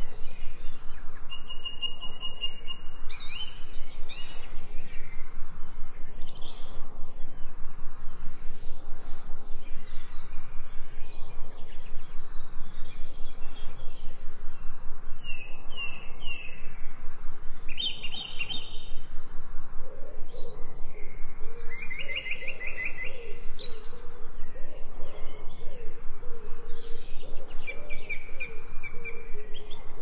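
Songbirds singing and chirping: short trills and quick falling whistled notes, one after another. From about twenty seconds in, a lower, warbling call joins them.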